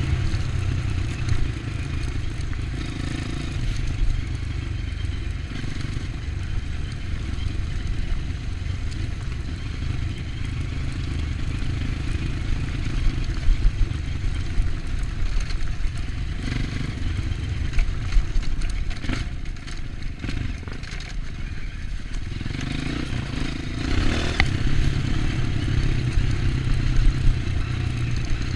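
Dirt bike engine running on a trail ride, its note rising and falling with the throttle, easing off about two-thirds of the way through and picking up again soon after.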